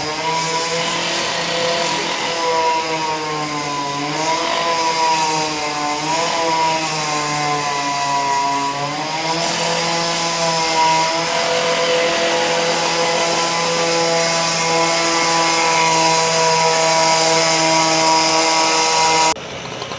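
Motorised construction machinery running loudly with a steady hum, its pitch wavering up and down for the first half, then holding steady, and cutting off abruptly near the end.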